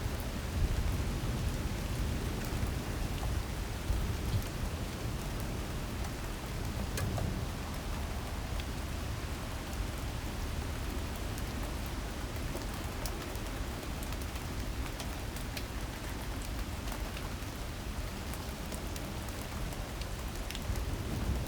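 Heavy rain pouring down steadily, with many sharp ticks of drops hitting nearby surfaces and a low rumble underneath.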